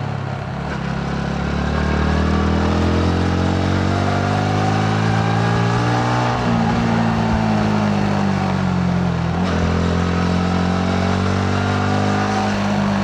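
Yamaha MT-15's single-cylinder engine under way. The revs climb over the first six seconds, then ease back and hold steady, with a brief break about nine and a half seconds in, over wind and road noise.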